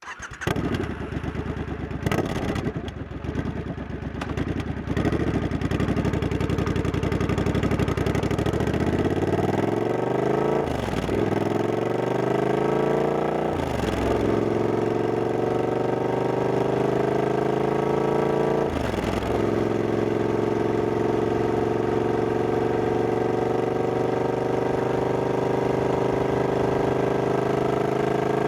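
Triumph Scrambler 1200X's 1200 cc parallel-twin engine idles for several seconds with a few clicks. It then pulls away, revving up through the gears with three shifts, and settles into steady cruising.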